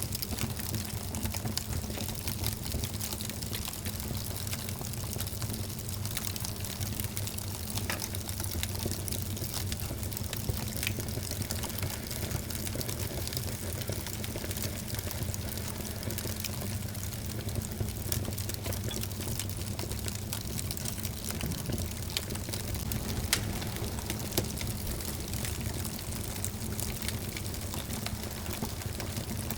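Wood fire burning in a fireplace: a steady low rustle of flames with frequent small crackles and pops. A few sharper pops stand out, the loudest about two-thirds of the way in.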